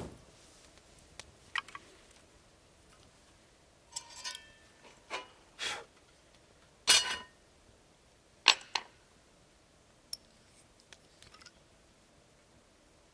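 Scattered knocks, clinks and short scrapes of camp gear being handled, one of them ringing like metal about four seconds in, with quiet between them.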